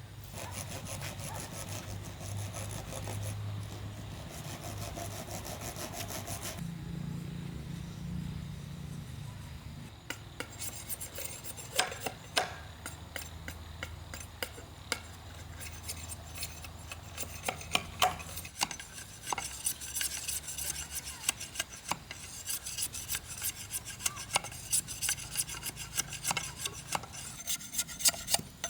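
Hand tool rasping and scraping at bamboo: fast, even strokes for the first few seconds, then irregular sharp scrapes and ticks that grow denser toward the end.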